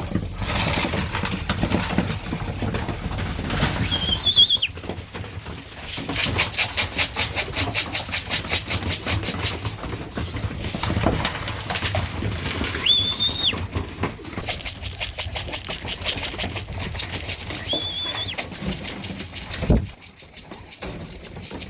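Racing pigeons' wings flapping and clattering in quick flurries as the birds come down and trap into the loft. Three short, high whistled notes sound along with it.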